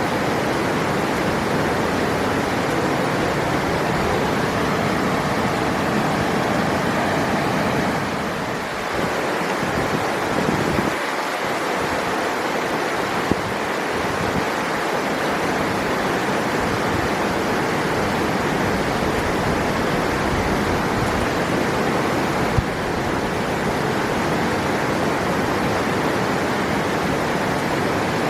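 River water flowing, a steady dense rush with no break.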